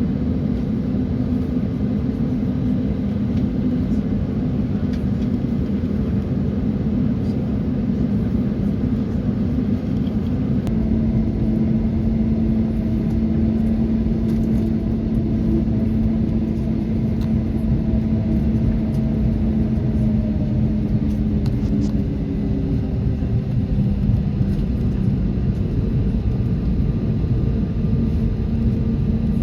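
Boeing 737's jet engines running steadily, heard from inside the passenger cabin as a low rumble with a steady hum. The hum's pitch steps up about ten seconds in and then drifts slowly.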